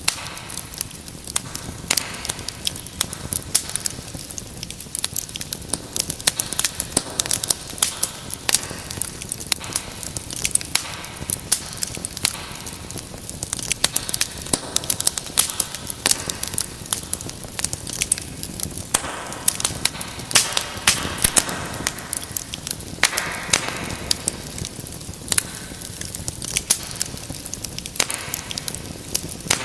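Wood fire burning in a fireplace, with a steady hiss and many sharp, irregular crackles and pops.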